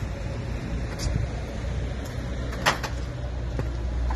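Steady low rumble of idling diesel truck engines, with a few light clicks and knocks of handling, the sharpest about two and a half seconds in.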